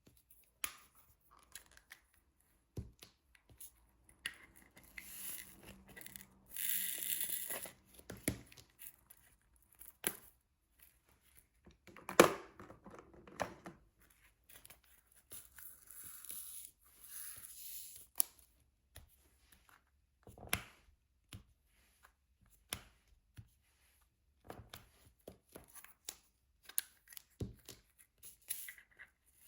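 Diamond painting at close range: scattered light clicks and taps of the drill pen and plastic resin drills, the sharpest about twelve seconds in, with two short stretches of rustling, around seven and sixteen seconds in.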